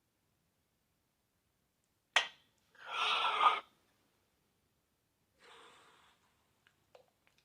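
African grey parrot making a sharp click followed by a short, sneeze-like noisy burst, then a fainter breathy sound a couple of seconds later.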